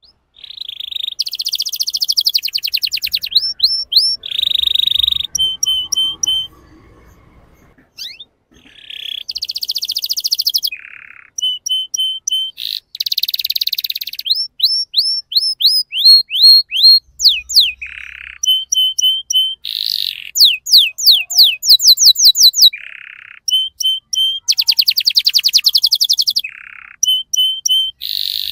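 Young male canary singing a long, varied song of rapid trills, fast repeated sweeping notes and short chirps, with a brief pause about seven seconds in.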